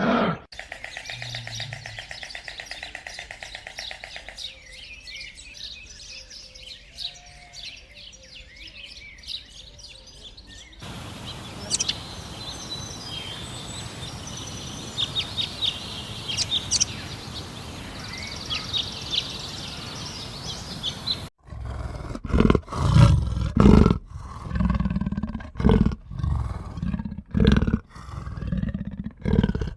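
Small birds chirping, then, from about two-thirds of the way in, a large animal's loud, low calls, repeated every second or so.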